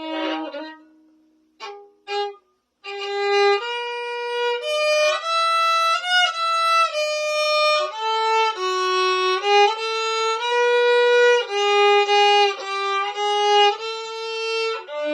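Violin played with a carbon-fibre viola bow, the violin a little out of tune: a few short tentative notes, then from about three seconds in a slow melody of sustained bowed notes that runs to near the end.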